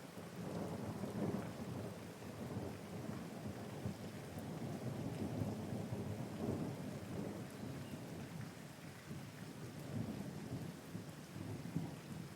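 Rolling thunder rumbling in surges over steady rain, the rumble swelling up about half a second in.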